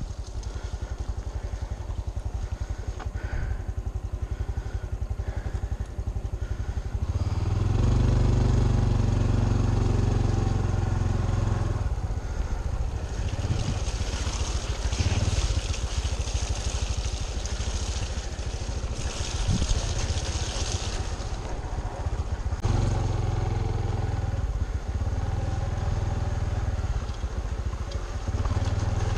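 Honda CT125 Trail 125's single-cylinder four-stroke engine running as the bike is ridden on a trail, the engine note swelling under more throttle from about seven to twelve seconds in and again near the end. A hissing noise runs for several seconds in the middle.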